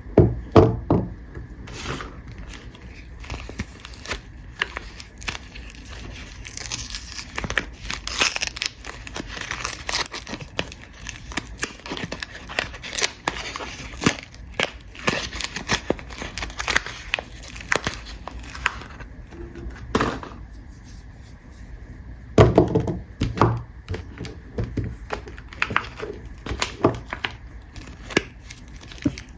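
Soap packaging wrappers being handled and unwrapped: irregular crinkling, crackling and tearing, with louder bursts near the start and about 22 seconds in.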